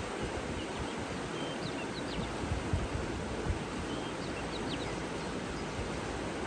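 Steady rush of running water, with a few faint, short bird chirps in two small clusters, about a second and a half in and again about four seconds in.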